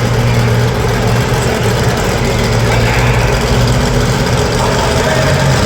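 Monster truck engine running at a steady idle, a loud, even low drone.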